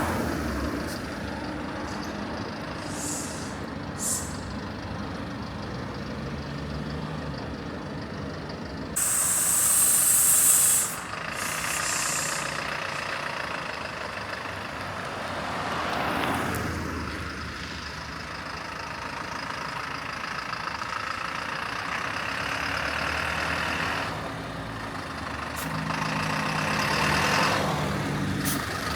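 A vehicle engine running steadily, with a loud hiss lasting about two seconds, about nine seconds in.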